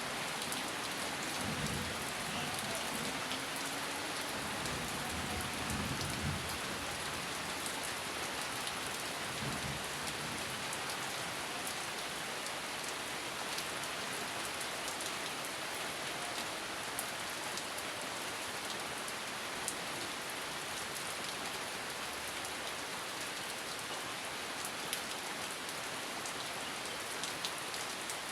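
Steady rain falling on a surface, with a faint low rumble of distant thunder during the first ten seconds and a few sharper drips ticking later on.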